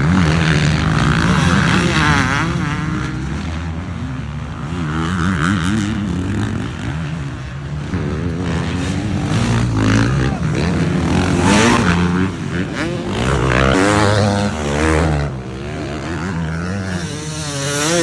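Several motocross bikes racing, their engines revving hard and dropping again through throttle changes, the pitch rising and falling over and over.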